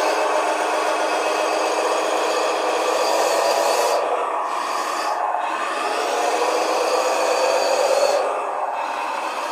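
RC bulldozer's sound unit playing a simulated engine sound, its pitch shifting up and down with the throttle and settling a little lower about eight seconds in.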